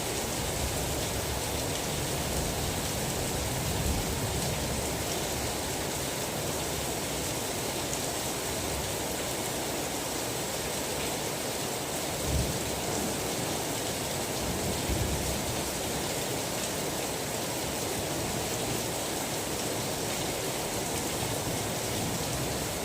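Steady rain falling during a thunderstorm, an even hiss, with two faint low bumps about halfway through.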